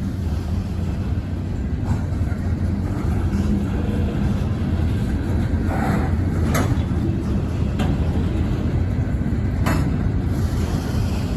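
Wheeling and Lake Erie freight train running by with a steady, deep rumble, with a few sharp high-pitched squeals or clicks from the wheels around the middle and again near the end.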